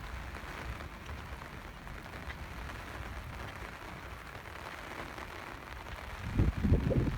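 Steady rain falling, an even hiss of drops on the ground around. Near the end, loud low buffeting from wind on the microphone comes in over it.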